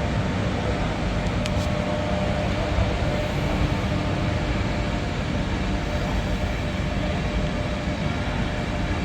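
InterCity 225 electric train pulling out of the platform: a steady rumble of running gear with a faint high whine over it.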